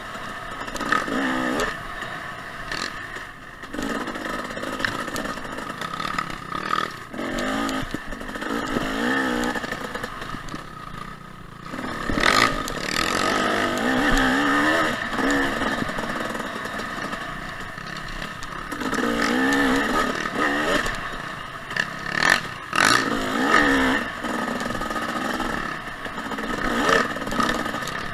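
Two-stroke dirt bike engine, a 2014 Husqvarna TC 250, revving up and down over and over while riding a trail. It is broken by sharp knocks and clatter, loudest about twelve seconds in and again around twenty-two seconds.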